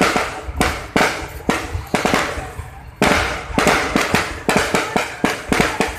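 Fireworks going off in a display: a rapid series of sharp bangs and crackles, several a second, with heavier booms about three seconds in.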